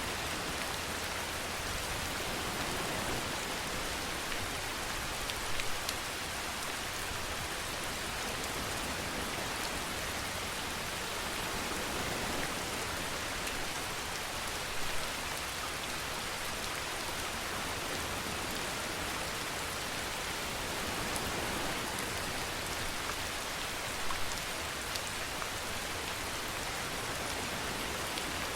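Steady rainfall: an even hiss of rain on surfaces, with a few single louder drop hits.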